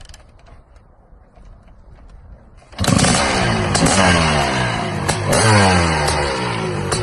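Honda CR500's single-cylinder two-stroke engine bursts in suddenly nearly three seconds in, after faint clicking, and is revved, its pitch climbing again and again with throttle blips.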